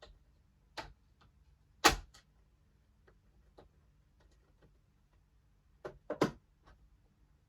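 Hard plastic toy parts being handled, with a few sharp clicks and knocks as pieces snap into place. The loudest click comes about two seconds in, and a quick double click comes near six seconds.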